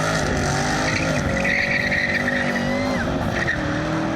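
A car engine held at high revs while the tyres squeal, a burnout, with the squeal loudest in the middle and easing off about three seconds in.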